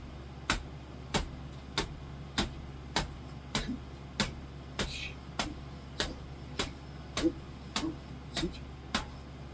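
Fist punches landing on a maki bag filled with small pebbles, one sharp thud a little more than once a second, in a steady rhythm.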